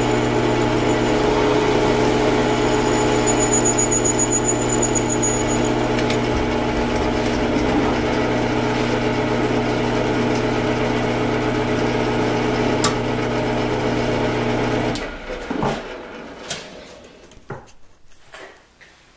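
An electric shop power tool motor running steadily under work, then switched off about three-quarters of the way in, followed by a few light knocks.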